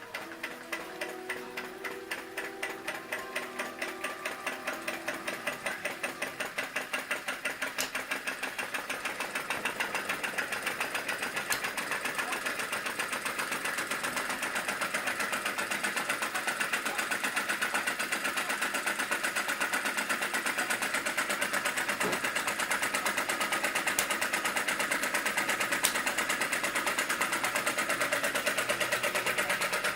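Model vacuum (flame-licker) engine running at full speed, about 500 rpm: a rapid, even train of small mechanical pops and clicks. It gets louder over the first ten seconds or so, then runs steady.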